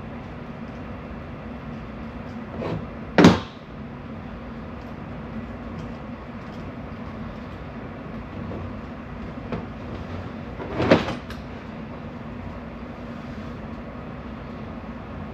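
Two sharp knocks, about three seconds and eleven seconds in, with a few fainter taps around them. A steady low hum runs underneath.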